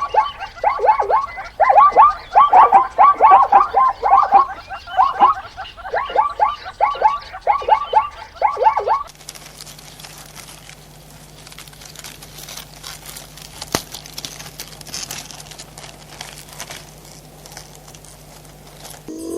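An animal's rapid series of short calls, each falling in pitch, repeated several times a second for about nine seconds. Then the sound cuts to a much quieter background with a low steady hum and faint scattered clicks.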